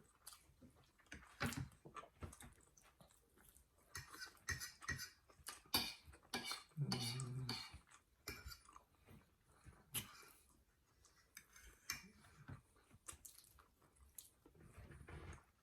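Faint, scattered clicks and scrapes of cutlery on plates, with chewing during a meal of steak and eggs. A brief low sound comes about seven seconds in.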